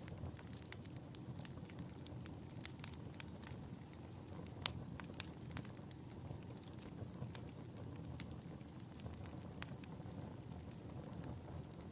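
Wood fire burning in a fireplace: a steady low rumble with frequent irregular crackles and pops, one sharper pop near the middle.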